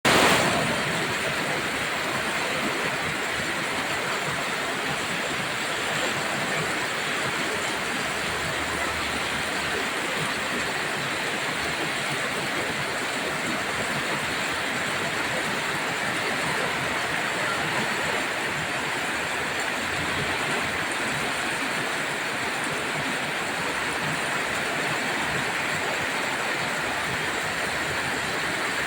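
Heavy rain falling steadily: a dense, even hiss with no breaks or thunder.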